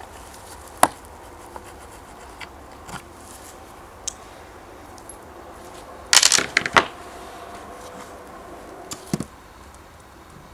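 Small hard parts and tools being handled: a sharp clink about a second in, a rattling cluster of clinks around six seconds in, and a couple more knocks near nine seconds.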